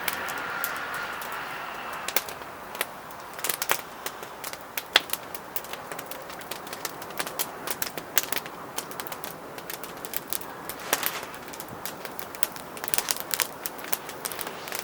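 Firewood burning in a Solotour fire pit, crackling with irregular sharp pops over a steady hiss; one pop about five seconds in is the loudest.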